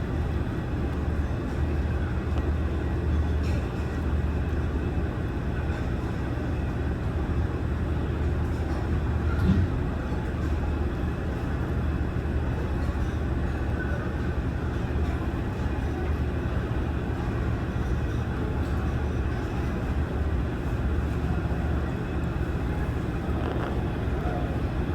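Airbus A321 as a steady low rumble, with a single brief knock about ten seconds in.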